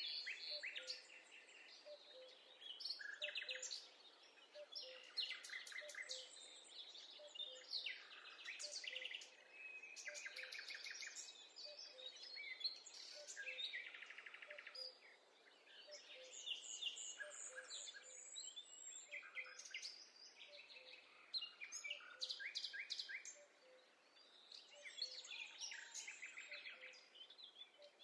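Forest birdsong: several birds singing at once, with chirps and rapid trills overlapping throughout over a faint hiss. A faint low tick repeats about once a second underneath.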